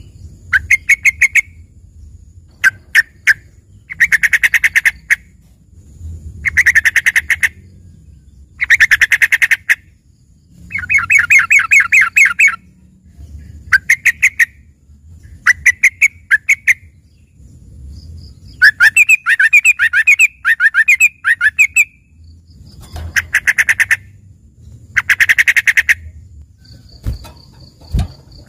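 Yellow-vented bulbul (trucukan) singing loud bursts of rapid repeated notes, each burst about a second long, coming every two seconds or so. This is its learned 'isian' song, which sounds like a greater green leafbird (cucak ijo) in full song.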